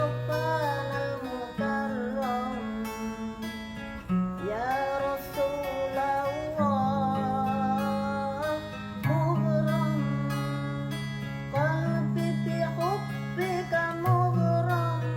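An elderly woman singing sholawat, an Islamic devotional song, in a wavering, ornamented melody over instrumental accompaniment with long held bass notes.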